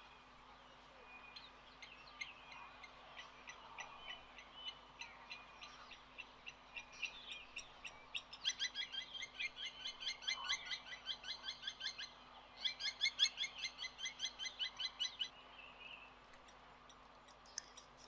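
Birds calling: scattered high chirps, then two long runs of rapid, evenly repeated chirps, several a second, in the middle, each lasting a few seconds with a short break between them.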